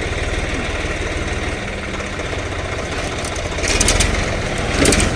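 Swaraj tractor's diesel engine running steadily with a low, even pulse. Two short, louder bursts of noise break in, about four seconds in and just before the end.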